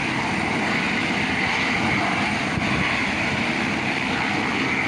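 Helicopter turbine and rotor running steadily at close range, just before lift-off, with a rapid low rotor flutter under the engine noise.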